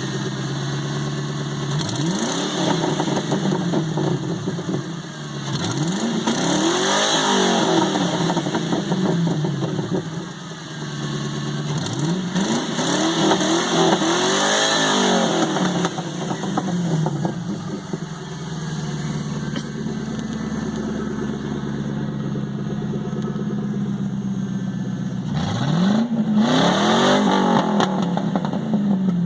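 Ford Crown Victoria Police Interceptor's 4.6-litre V8 with its mufflers cut off and all four catalytic converters still in place, idling and being revved several times. Each rev rises in pitch and falls back to a steady idle, with a longer stretch of plain idling past the middle.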